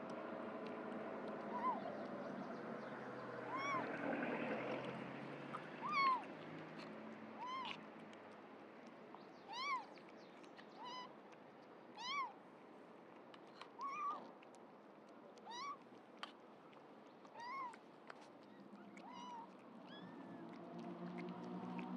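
Young kittens mewing over and over, short high cries that rise and fall, about one a second. A lower, steady sound with several tones lies beneath them in the first few seconds and again near the end.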